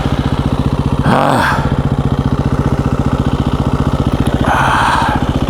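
A KTM 350 EXC-F's single-cylinder four-stroke engine running steadily at low revs with an even, rapid chug, the bike barely moving on a technical trail. About a second in there is a short vocal exclamation.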